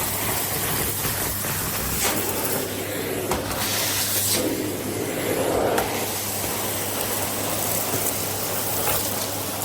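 Philips Series 3000 Performer Compact bagged vacuum cleaner (XD3110/09, 900 W) running steadily on carpet, a constant whooshing hiss with a low hum, with a few sharp clicks of debris being sucked up.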